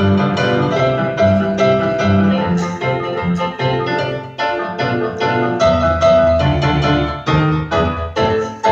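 Piano playing a melody over chords and a bass line, a steady run of struck notes.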